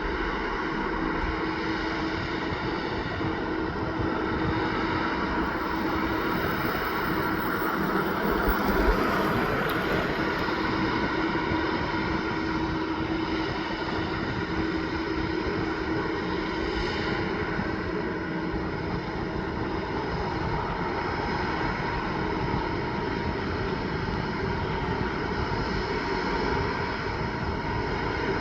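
Heavy truck engine running at a steady speed, a continuous drone with no pass-by rise and fall.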